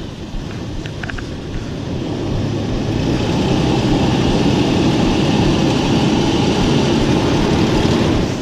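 Truck engine revving under load as it backs up, pulling hard. It climbs over about the first three seconds, then holds loud and steady before easing off at the end.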